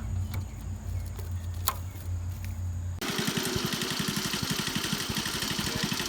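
A low steady hum for about three seconds, then a small engine running with a rapid, even putter that comes in abruptly.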